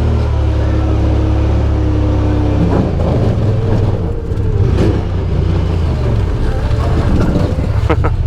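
Side-by-side UTV engine running under way, its note steady and then shifting in pitch about three seconds in and again near the end, with a brief high rising squeak just before the end.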